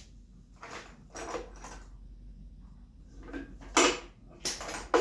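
Hands rummaging through tools and hardware to find a misplaced 13 mm tool: a few soft shuffles, then two louder metal clatters near the end.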